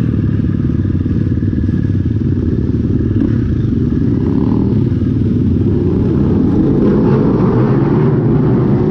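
Dirt bike engine running while riding, a steady motorcycle engine note that gets a little louder in the second half.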